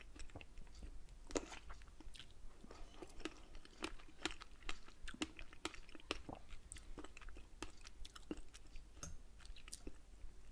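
Close-miked mouth sounds of a man chewing strawberries: a string of short, irregular wet clicks and smacks.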